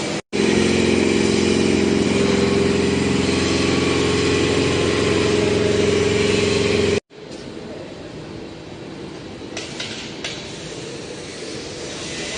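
Bus engine running steadily for about seven seconds, then an abrupt cut to fainter vehicle noise.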